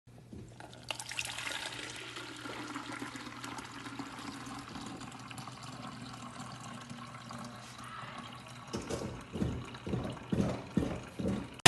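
Water running, a steady splashing hiss, which gives way in the last few seconds to a series of uneven sloshing pulses.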